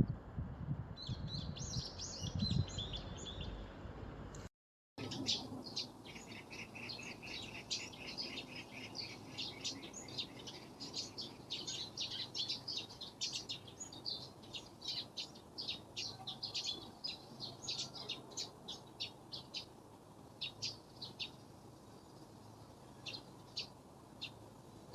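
Small birds chirping: many short, high, rapid calls that thin out to a few scattered ones near the end. A low rumble sits under the first few seconds, and the sound drops out briefly about four and a half seconds in.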